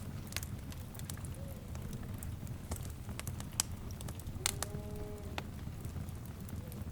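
Wood fire crackling: a steady low rumble of flames with frequent sharp pops and crackles. About four and a half seconds in, a brief pitched animal-like call lasts about a second.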